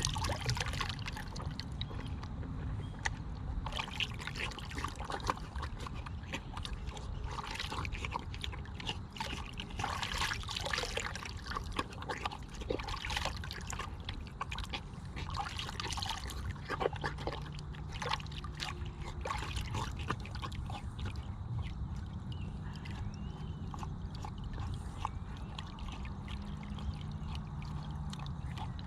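A pet lapping water from a waterer, in irregular runs of quick wet splashy laps, with water trickling and sloshing.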